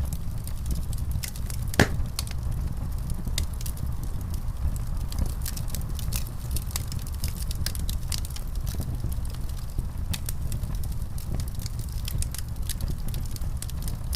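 Wood fire crackling in a fireplace: a steady low rumble of the flames with many small sharp pops and snaps, and one louder pop about two seconds in.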